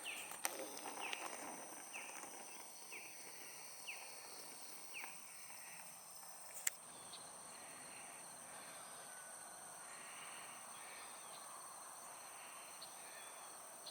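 Faint outdoor ambience: a steady high insect drone, with a run of short falling bird chirps about every half second during the first five seconds and a single sharp click near the seventh second.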